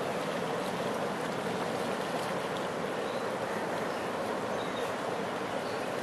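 Freight train cars rolling past, a steady wheel-on-rail noise with faint scattered clicks.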